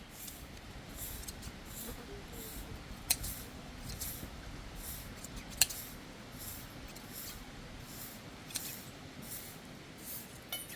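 Hand shears snipping through a sheep's wool in an even rhythm, about two cuts a second, with a few sharper metallic clicks of the blades.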